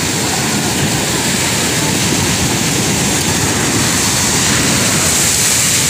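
Steady rushing noise of wind and rough sea around a small fishing boat, loud and unbroken.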